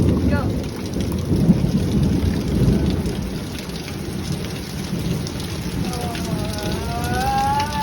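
Thunder rumbling over steady heavy rain; the rumble is strongest in the first few seconds, then fades, leaving the even hiss of the downpour.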